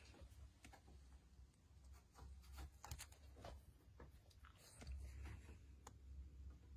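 Faint, irregular crunching clicks over a low steady hum: an Amazonian giant centipede (Scolopendra gigantea) chewing on a rat.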